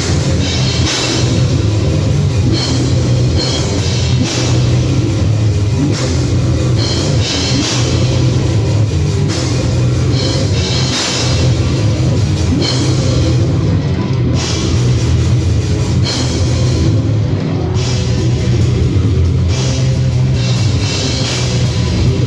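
Heavy metal band playing: a loud, dense wall of drum kit and guitars that runs on without a break.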